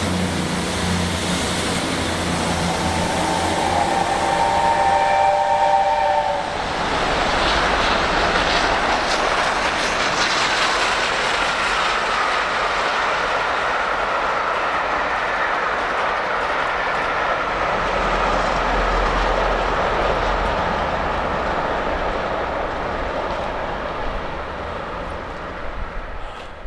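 A train sounds a held, several-note horn or whistle for about four seconds, then passes with a loud, steady rush of wheel and rail noise that fades near the end.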